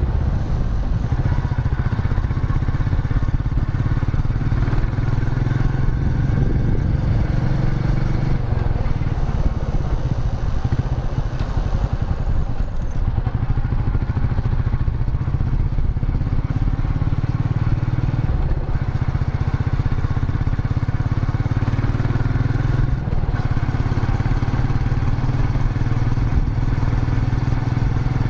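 Royal Enfield Meteor 350's 349 cc single-cylinder engine running steadily under way, its low exhaust note holding fairly even revs.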